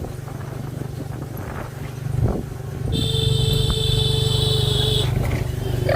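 Truck engine running steadily, with a single knock about two seconds in. Halfway through, a loud, steady, high-pitched whine joins it for about two seconds, then stops.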